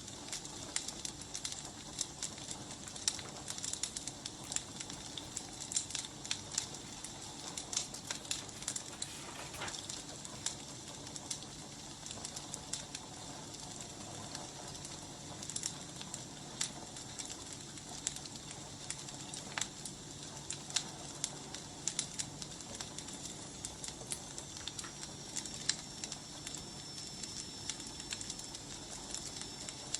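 Firewood burning, crackling with frequent sharp pops over a steady hiss. A faint, thin high whistle comes in about three quarters of the way through.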